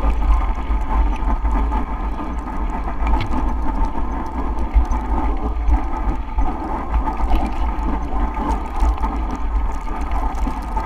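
Steady wind buffeting the microphone on a bicycle ride through a blizzard, a gusty low rumble with a constant rushing noise over it.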